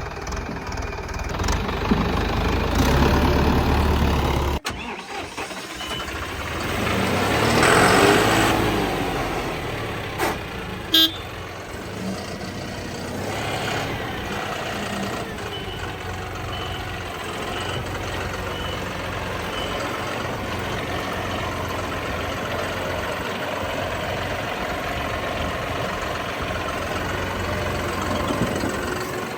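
Tractor diesel engines running under load. The sound swells loud about eight seconds in, has a short sharp sound about eleven seconds in, then settles to a steady run.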